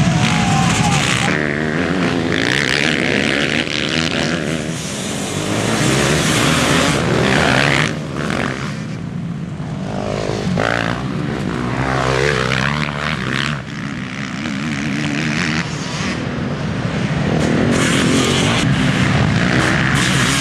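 Motocross bikes racing, their engines revving up and falling back as they accelerate and brake, with several engines overlapping. The loudness swells and dips as bikes pass.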